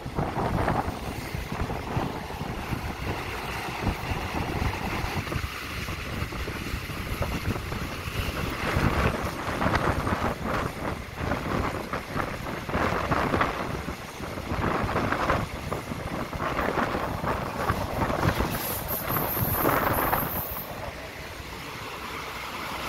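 Running noise of a moving passenger train heard from an open carriage window: wind buffeting the microphone over an uneven rumble and clatter of wheels on rails. A brief high hiss comes in near the end.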